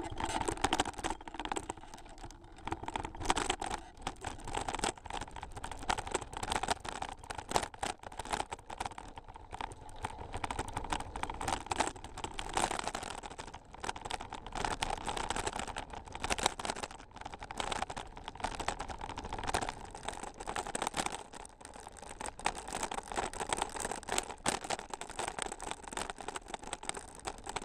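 Bicycle riding over a rough trail surface: continuous dense, irregular rattling and crunching of the wheels and frame over rough ground.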